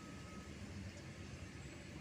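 Faint, steady low rumble of heavy machinery running in the background, with a faint thin whine near the start.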